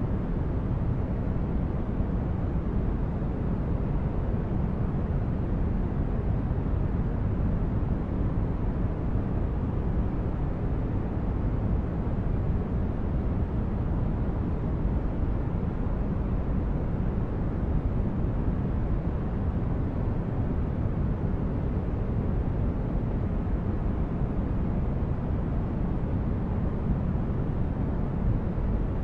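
A steady white-noise track for sleep: an even rush of noise, deep and dull-toned, with no tones, beats or changes.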